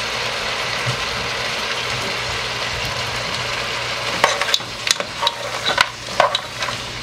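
Chicken, chopped onions and vegetables sizzling steadily in a pot on the stove. From about four seconds in, a utensil stirs the food, scraping and knocking against the pot in irregular clicks.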